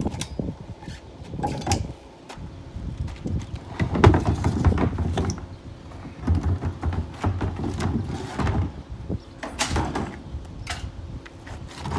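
Irregular knocking and clattering as the wheels are taken off old wheeled trash bins, with a few sharp clicks near the end.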